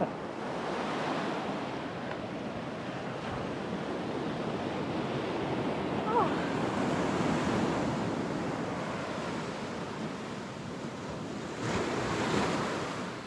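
Ocean surf breaking and washing up a sandy beach, a steady wash that swells and eases, with a stronger wave surge near the end.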